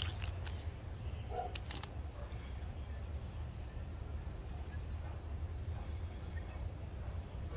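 Crickets chirping steadily in the background over a low steady hum, with a few light clicks in the first two seconds.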